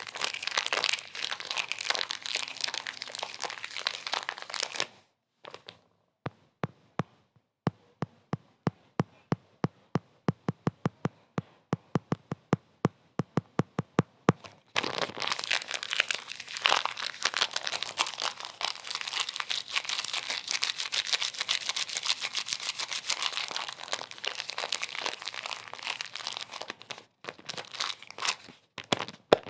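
Dense crinkling crackle that stops about five seconds in. About eight seconds of separate sharp clicks follow, four or five a second, before the dense crinkling resumes and runs until a brief break near the end.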